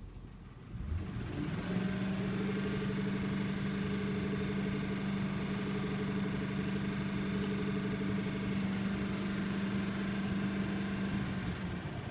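Ford 5.4-litre three-valve V8 engine, heard from inside the truck's cab, revved up from idle about a second in and held at a steady raised speed for about ten seconds, then let back down near the end.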